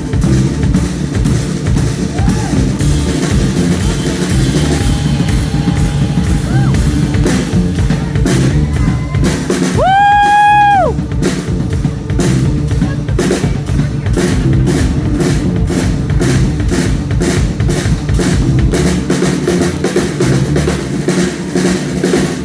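Live rock band playing an instrumental passage, a full drum kit keeping a steady beat under guitars and bass. About halfway through, a single high note slides up, is held for about a second, and slides back down over the band.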